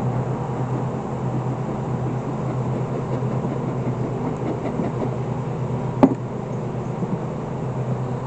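Steady hum of a honeybee colony around an open hive, with one sharp knock about six seconds in.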